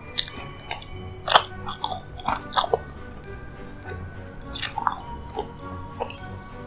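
Close-miked eating of a dessert: sharp crackling bites and chewing, with the loudest crackles about a second and a half in and just past two and a half seconds. Soft background music plays underneath.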